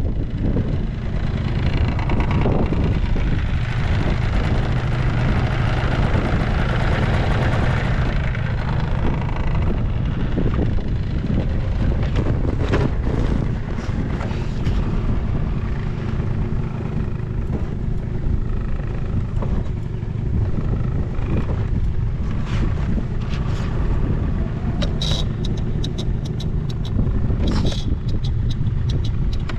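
Honda Live Dio AF35 scooter's 50cc two-stroke engine running steadily, with two brief high squeaks near the end.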